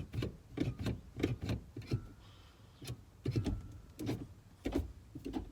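Ktuned billet shifter in a K-swapped Honda Civic being moved through the gates by hand: about a dozen short clicks and light knocks at uneven intervals as the lever snaps into and out of gear positions.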